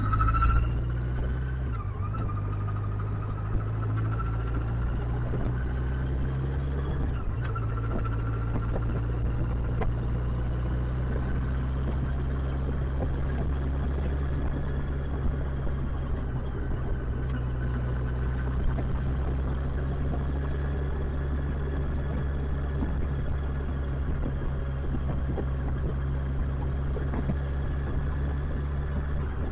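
Motorcycle engine running while riding. Its pitch rises at the start, drops about two seconds in and again near seven seconds, then holds steady at cruising speed over road and wind noise.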